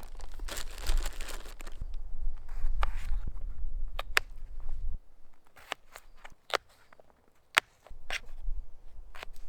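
Potatoes being handled, then cut with a knife on a cutting board: rustling at first, then a run of sharp, irregular knocks and clicks as the blade goes through and strikes the board.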